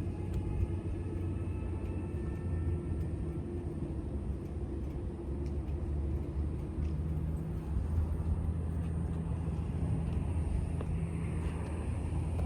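Harley-Davidson Fat Boy 114's Milwaukee-Eight 114 V-twin engine and exhaust running at low, steady revs, a deep even rumble.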